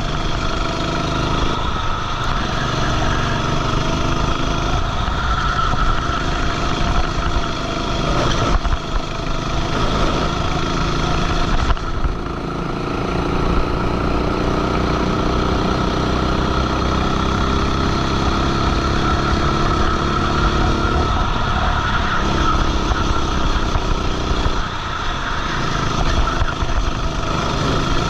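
Racing go-kart engine heard onboard during a lap, revving up and down as the kart goes through corners and straights. The note drops sharply twice, a little after a quarter of the way in and again before midway, then climbs slowly and steadily for several seconds before falling back.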